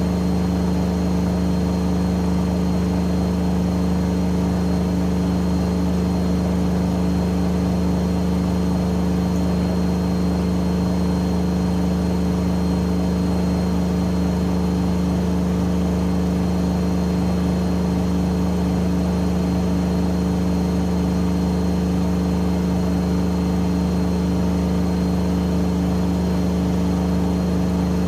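AEG Öko-Lavamat 88840 washing machine spinning at steady high speed, its motor giving a constant hum with a fixed tone that does not change.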